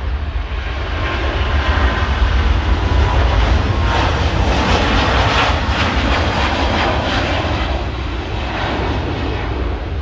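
Jet airliner's engines passing close by: a loud rushing rumble that builds over the first few seconds, peaks in the middle and slowly fades, with a faint whine early on.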